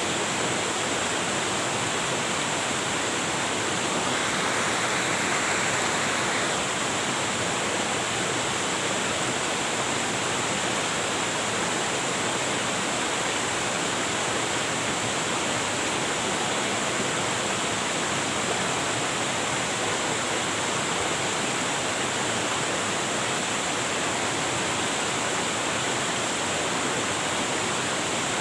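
Waterfall: a steady rush of falling water, briefly a little louder and brighter about four seconds in.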